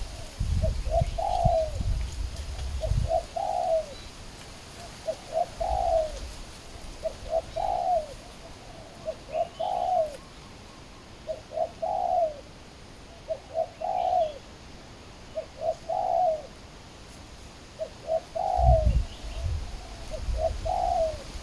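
Spotted doves cooing: a short, repeated coo phrase about every two seconds, as the caged decoy and wild birds call. Low rumbling noise in the first few seconds and again near the end.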